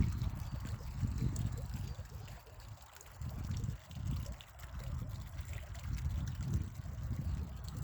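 Spring water trickling, under a low rumble that swells and fades every second or so.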